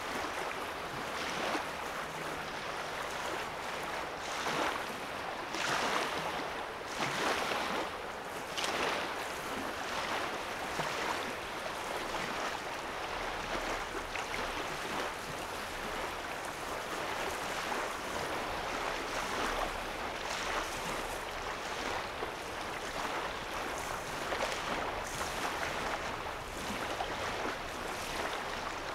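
Small waves lapping at a sandy lake shore: a continuous wash of water with brief splashy surges every second or so.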